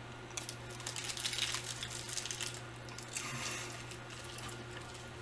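A person chewing a piece of candy, with irregular mouth noises for the first few seconds that then die down.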